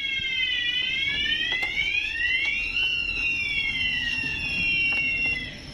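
Fire alarm sounder wailing with a slow up-and-down sweeping tone, joined by a steady high tone partway through. It cuts off suddenly near the end.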